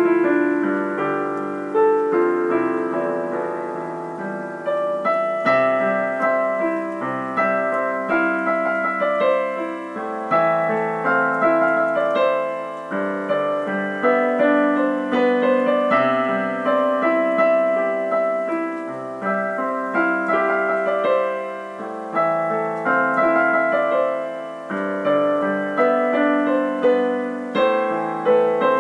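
Background music: solo piano playing a flowing melody with chords.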